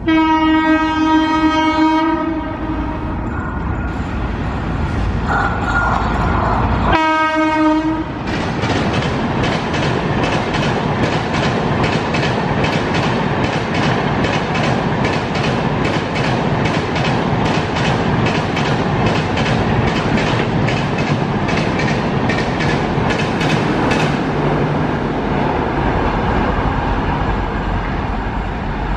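Electric locomotive's horn sounding one two-second blast, then a short blast about seven seconds in, as an express passes at speed. Then a rapid, steady clickety-clack of the passenger coaches' wheels over rail joints, easing near the end as the train goes by.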